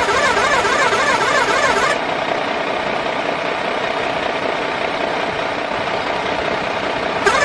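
Radio-controlled toy truck running with a steady mechanical drone, overlaid for about the first two seconds and again near the end by a rapidly wavering whine.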